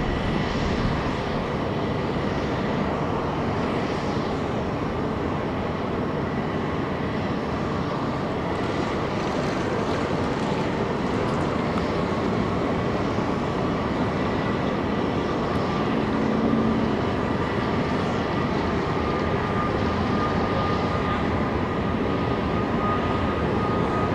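Jet engines of a Southwest Airlines Boeing 737 at takeoff power: a steady roar of engine noise with a thin high whine that rises slightly in pitch in the second half.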